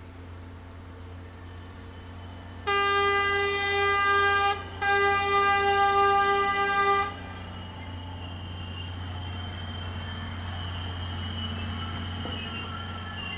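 Horn of a South Johnstone Mill narrow-gauge cane train locomotive sounding twice on one steady note, each blast about two seconds long with a short break between, over the steady drone of the locomotive's diesel engine.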